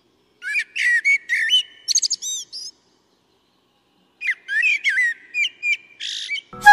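A songbird singing two rich phrases of quick chirps and whistled notes, with a pause of about a second and a half between them.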